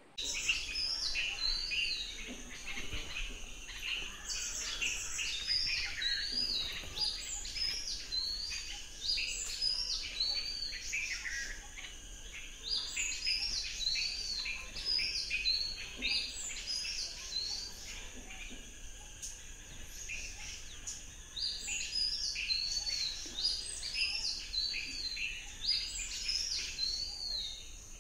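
Wild birds singing: quick chirping and whistled phrases repeated again and again, with a steady low hum underneath.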